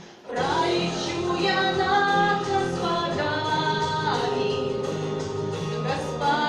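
A song performed live: a singer holds long, gliding notes over instrumental accompaniment. The music drops away briefly right at the start, then comes back in.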